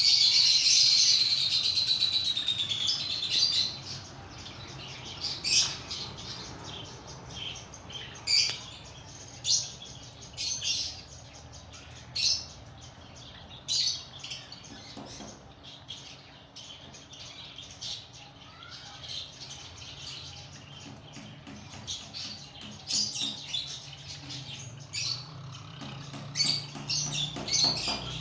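Parrots calling: a loud burst of dense chattering for the first few seconds, then sharp single shrieks and chirps every second or two.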